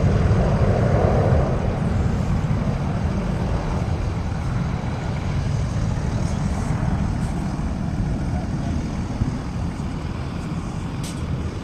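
Aircraft engine noise, a steady rumbling roar that slowly fades away.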